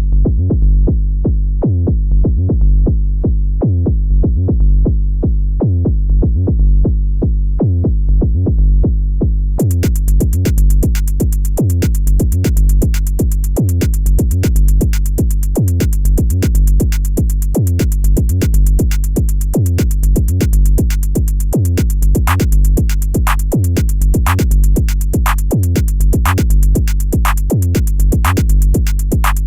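Electronic music played on synthesizers with a drum machine: a repeating bass line over a steady beat, joined about ten seconds in by a fast, even high ticking.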